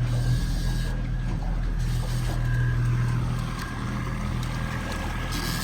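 A boat's engine running with a steady low hum.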